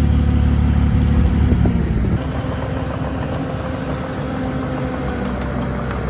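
Heavy earthmoving machine's diesel engine running under load, loud at first and easing off about two seconds in, with a steady higher whine over the engine note.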